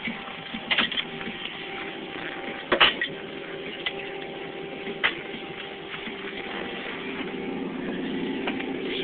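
Car engine idling steadily, heard from inside the cabin, with a few sharp clicks and knocks in the first five seconds. The loudest knock comes about three seconds in.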